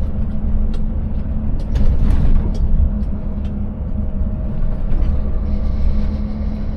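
Scania 590S V8 truck driving, its engine running with a steady low drone, with scattered sharp knocks and rattles from the truck jolting over a rough, broken road surface.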